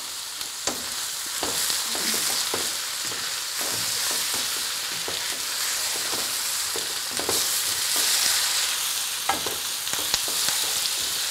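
Sliced sausages, onions, carrots and French beans sizzling in oil in a wok, stirred with a wooden spoon that knocks and scrapes against the pan now and then.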